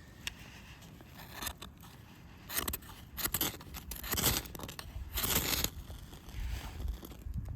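A series of rasping scrapes: several strokes, loudest between about two and a half and six seconds in, with softer ones near the end.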